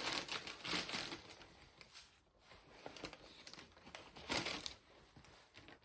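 Grocery bags and packaging crinkling and rustling in irregular bursts as shopping is handled and unpacked.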